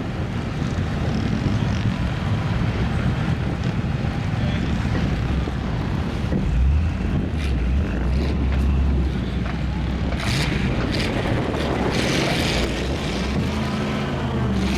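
Lifted mud truck's engine running with a low rumble that swells louder for a couple of seconds midway, with wind buffeting the microphone.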